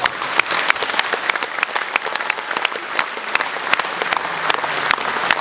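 Concert audience applauding at the end of a song: many hands clapping together.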